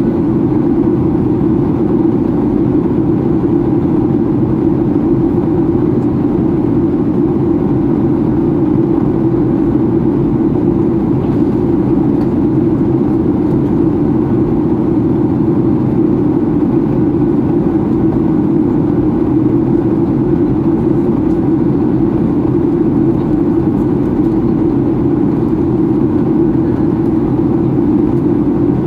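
Steady cabin roar of a Boeing 737-800 in flight, its CFM56-7B jet engines and the airflow past the fuselage making an even, deep rushing noise that does not change.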